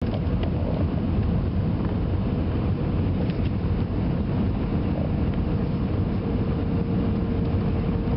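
Steady cabin noise of an Airbus A320 airliner on approach: an even low rumble of engines and airflow with a faint steady hum.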